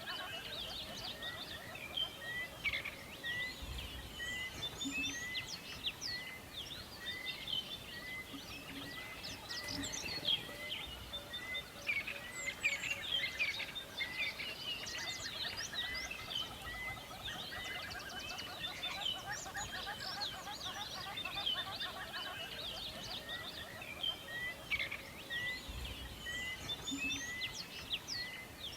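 Forest birdsong: many birds chirping and calling over one another, with one short note repeating about twice a second for long stretches.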